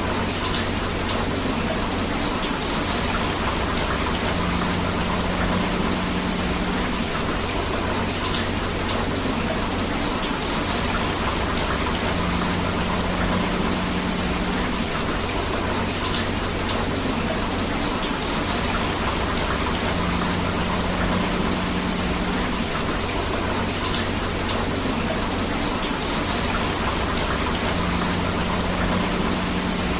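Steady rain together with a flowing river: an even, unbroken hiss of falling and running water, with a faint low rumble that swells about every eight seconds.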